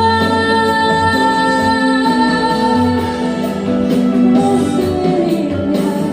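A song with a sung voice over guitar accompaniment, with long held notes and a steady bass line.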